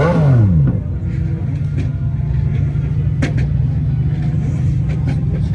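A car engine falls back from a brief rev at the start, its pitch dropping over about half a second, then settles into a steady low idle rumble. A single sharp click comes about three seconds in.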